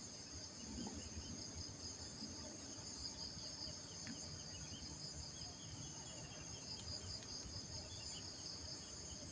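Steady, high-pitched trilling of an insect chorus, with faint repeated chirps beneath it.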